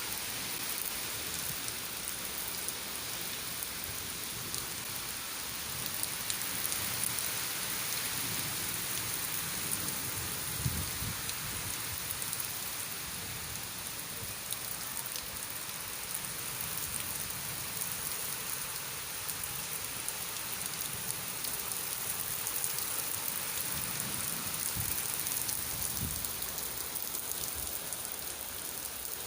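Rain falling steadily, a constant hiss of rain on surfaces, with a couple of brief low thumps, about a third of the way in and near the end.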